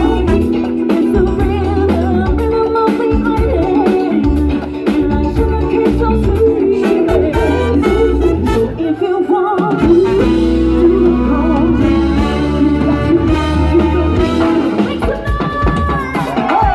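Live Latin band playing an upbeat dance number, with a steady beat and horns, and singing in places.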